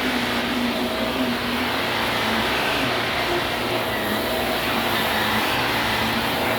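Vacuum cleaner running steadily: an even rushing noise with a constant whine through it.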